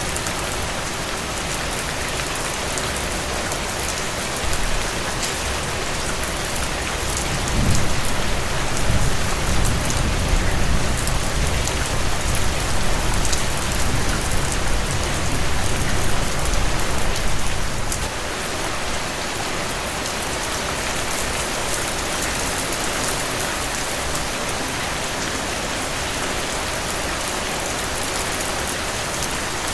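Steady rain falling on a surface, with fine scattered drop ticks. A low rumble comes in about a quarter of the way through, holds for about ten seconds and cuts off suddenly.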